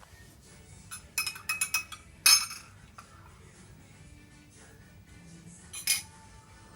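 A door rattling and knocking in its frame as the cat paws at it: a quick run of sharp clinks and rattles about a second in, a louder knock just after two seconds, and another knock near the end, over soft background music.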